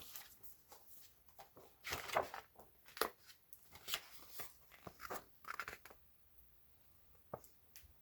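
Faint rustling and clicks of paper book pages being handled and turned, mostly in the first six seconds, then quieter.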